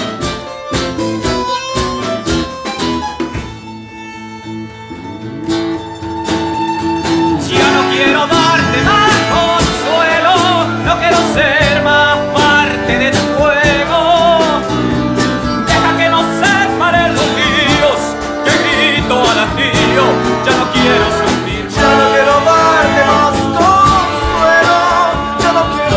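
A band playing an instrumental break with drums, guitars and bass. It drops quieter for a few seconds near the start, then comes back in full with a wavering lead melody over the band.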